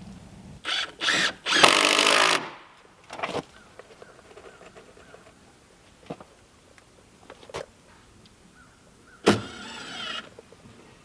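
A small electric power tool, like a cordless drill or driver, runs in short bursts: three quick ones in the first couple of seconds, the last the longest, another about three seconds in, and one more of about a second near the end. A few light knocks fall in between.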